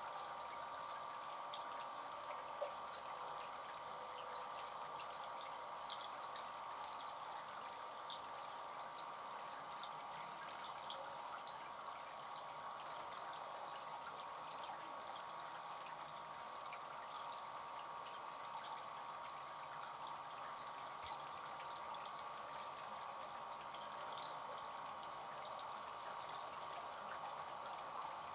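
Bird bath fountain trickling steadily, with many small drips and splashes landing in the water.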